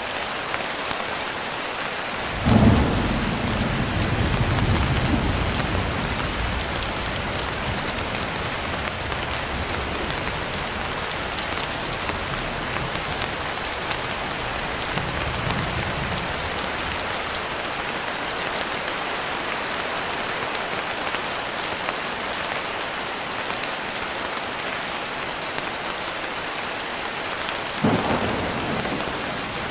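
Steady rain, an even hiss throughout, with thunder: a sharp clap about two and a half seconds in that rolls off over the next few seconds, a fainter rumble midway, and another clap near the end.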